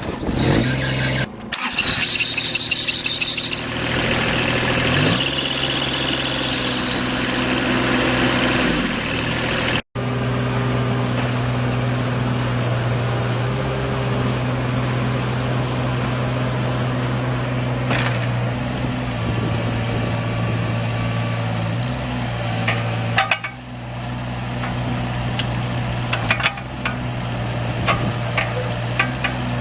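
Diesel engine of a 2006 Kubota KX41-3V mini excavator running. For the first ten seconds it is louder and noisier, its pitch rising and falling, then it settles into a steady idle with a few sharp clicks and a brief drop in level about two-thirds of the way through.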